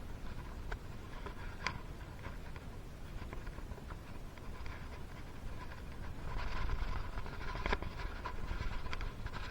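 Hand work on a two-stroke motorcycle engine's top end: scattered small metallic clicks and light scraping of parts and tools, busier for the last few seconds.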